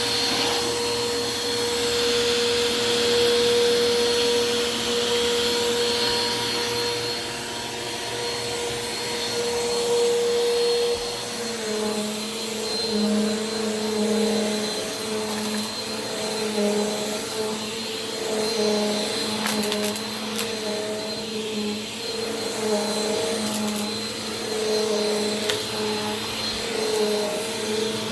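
A Bissell PowerForce Compact Turbo upright vacuum cleaner running on carpet. Its motor hums steadily at first; from about 11 seconds in, the pitch wavers up and down and the loudness rises and falls as it is worked back and forth.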